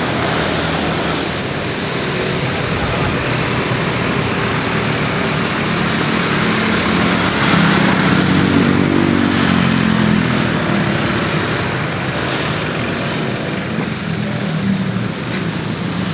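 Steady road traffic noise, with a motor vehicle passing close by: its engine note rises and falls and is loudest about eight seconds in.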